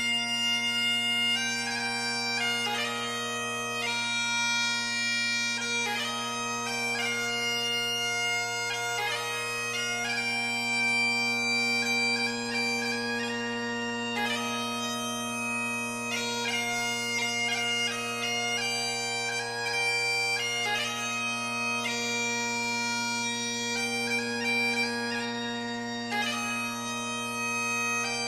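Bagpipe music: steady drones held under a chanter melody of changing notes.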